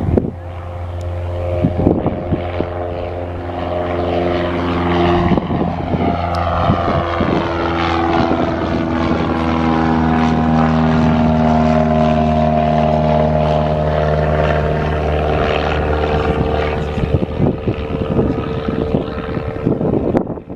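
Light single-engine propeller airplane flying past, its engine and propeller drone growing louder toward the middle, then dropping in pitch as it passes and fading.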